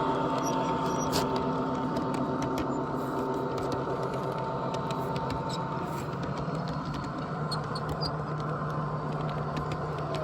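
A motor or engine running steadily with a constant hum and a higher tone that fades out about six seconds in, with faint scattered clicks.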